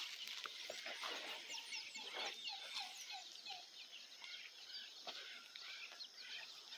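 Backyard chickens calling while foraging: scattered high chirps, with a quick run of about five short falling notes a little past the middle.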